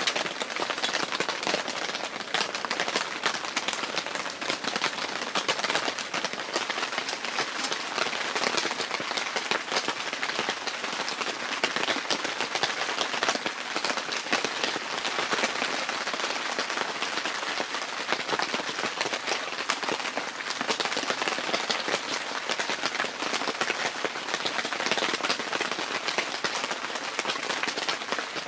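Steady rain falling on a tent's fabric roof, heard from inside the shelter as a dense, even hiss of drops.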